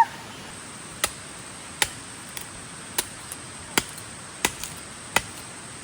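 Wood being chopped with a blade: a string of about seven sharp chops, roughly one every second or less, cutting hard wood for a fire.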